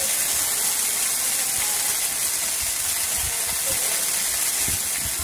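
Green chillies sizzling in oil in a kadai, a steady hiss, just lightly sautéed.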